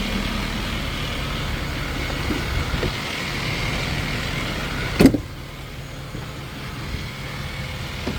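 Ford F550 truck engine idling steadily, with one sharp bang about five seconds in, after which the engine sounds quieter.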